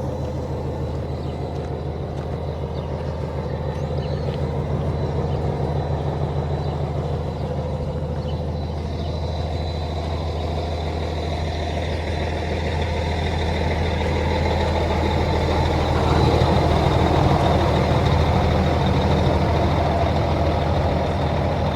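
Kenworth T800's Cummins ISX15 diesel engine running steadily at idle, growing somewhat louder about two-thirds of the way through.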